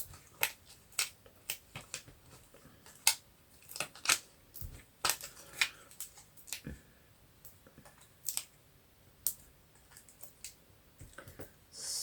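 Irregular series of sharp clicks and light taps from small craft materials being handled and pressed on a tabletop.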